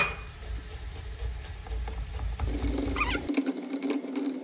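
Onions and grated carrots sizzling in oil in a large pot as a silicone spatula stirs them, with a sharp knock of the spatula against the pot at the start. A low steady hum joins in during the second half.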